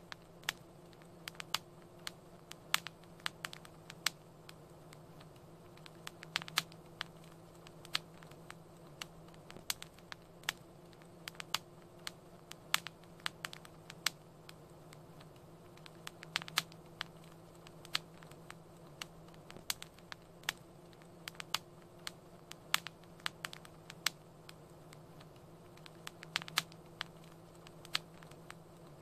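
Wood fire crackling: irregular sharp pops and snaps, several a second at times, over a steady low hiss and hum.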